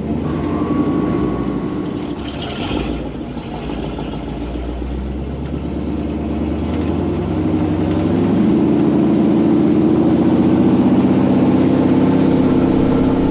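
A vehicle engine running just after starting, settling at first, then building and growing louder from about eight seconds in as it is put under load.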